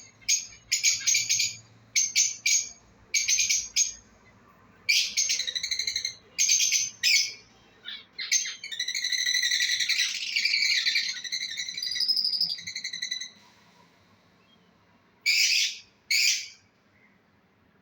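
Lovebirds calling: clusters of short, high-pitched chirps, then several seconds of continuous chattering about halfway through, and one last burst of chirps a little before the end.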